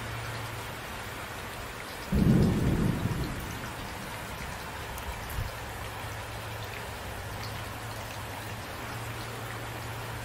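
Steady rain with one low clap of thunder that starts suddenly about two seconds in and rumbles away within a second or two.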